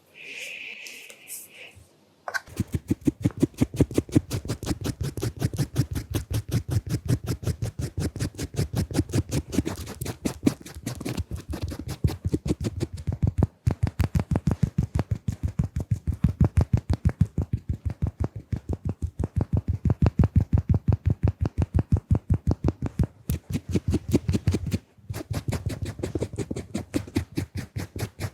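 Close-microphone ASMR drawing sounds: fast, even scratchy strokes, about four or five a second, with two short breaks, one about halfway and one near the end. A brief hiss comes before the strokes begin.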